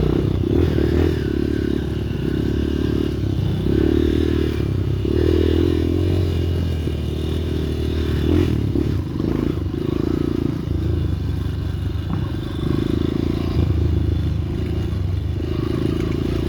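Motorcycle engine running without pause, its pitch and loudness swelling and easing every second or two, with scattered knocks and rattles.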